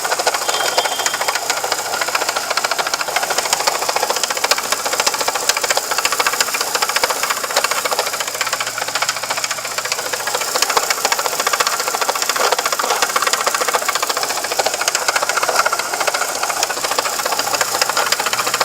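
1998 Chevrolet Vectra 2.0 engine running with a steady, rapid rattling and grinding noise. The noise comes from a broken water pump whose shaft has play.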